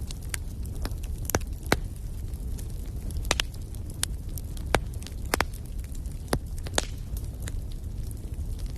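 Wood fire burning in a fireplace, crackling and popping at irregular moments over a low, steady rumble.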